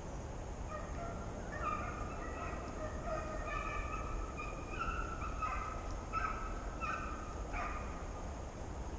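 A pack of deer hounds baying on a chase, several drawn-out calls overlapping from about a second in until near the end, over a steady low rumble of wind.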